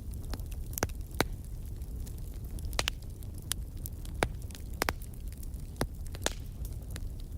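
Wood fire crackling in a fireplace: about ten sharp, irregular pops over a steady low rumble.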